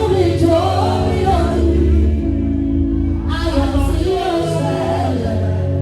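Gospel singing in Yoruba with live band backing: a lead voice sings long, sliding phrases over sustained keyboard chords and a steady bass.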